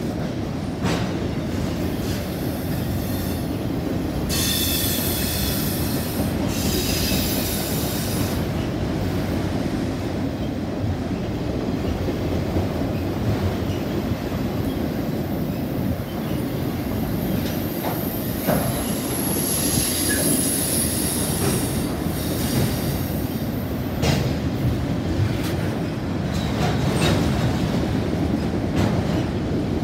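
CSX freight train's autorack cars rolling past at close range: a steady rumble of steel wheels on rail with occasional knocks. A high wheel squeal rises about four seconds in and again about nineteen seconds in, each lasting a few seconds.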